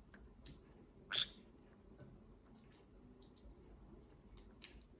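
Faint, scattered clicks and small knocks of a green-cheeked conure handling and nibbling a walnut, with one louder knock about a second in.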